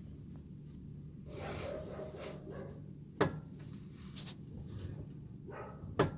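Toyota Ipsum steering rack knocking as the steering wheel is turned left and right: two sharp clunks about three seconds apart, with rubbing between them over a steady low hum. The owner puts the knock down to the steering rack.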